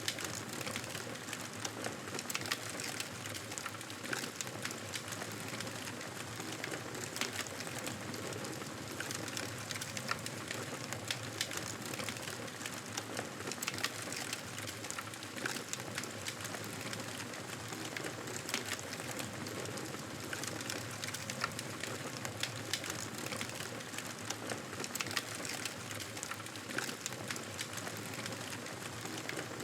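Wood fire crackling: a steady hiss with frequent irregular sharp pops and snaps.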